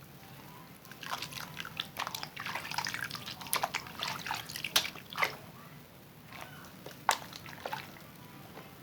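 Zest bar soap being lathered in wet hands: a busy run of short wet clicks and squishes that thins out to a few scattered ones near the end.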